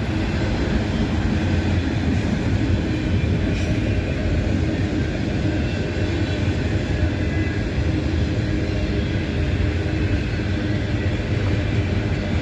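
Freight train of auto rack cars rolling past, a steady noise of steel wheels on the rails.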